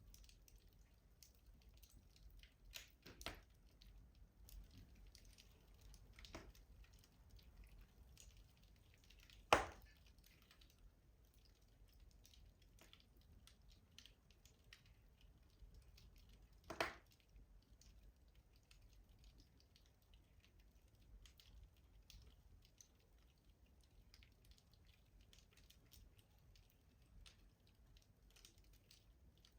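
Wood fire crackling in a rustic stove: faint, constant small ticks and pops, a few louder pops in the first several seconds, and two sharp loud cracks, one nearly ten seconds in and another about seventeen seconds in.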